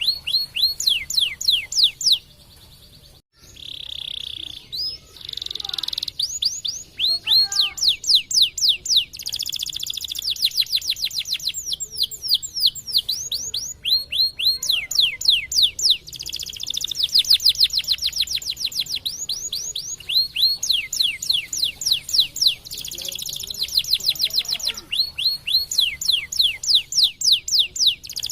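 Domestic canary singing a long song of fast trills, each a rapid run of high descending notes, with a few short steady buzzy notes between them. The song breaks off briefly about two to three seconds in.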